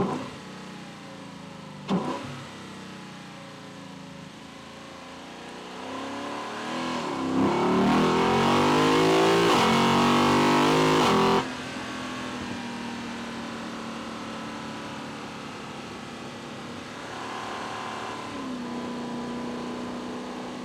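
Lexus LC 500's 5.0-litre V8 (2UR-GSE) induction noise, picked up in the engine bay: two short sharp blips, then a hard acceleration rising in pitch for about four seconds that cuts off suddenly. After that the engine runs quieter and steady, as if cruising.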